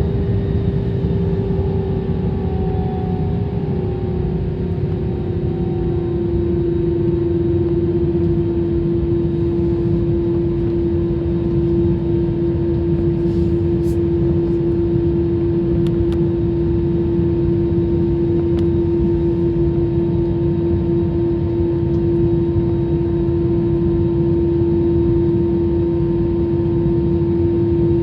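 Jet airliner engine and airflow noise heard in the cabin: a steady low rumble under a strong humming tone. The tone drops slightly in pitch over the first several seconds, then holds steady.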